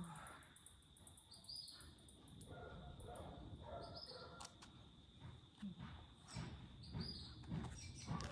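Faint outdoor ambience: a bird giving a short high chirp about every three seconds over a steady high-pitched insect drone. Evenly paced footsteps join in the second half.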